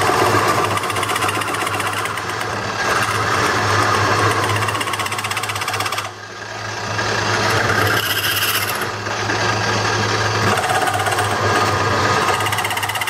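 Turning tool rattling against a spinning wet black walnut bowl blank on a Craftsman wood lathe: a harsh, rapid rattle over the lathe's steady hum, easing off briefly about six seconds in. It sounds awful, and the turner puts it down to the metal of her skew against the wet wood.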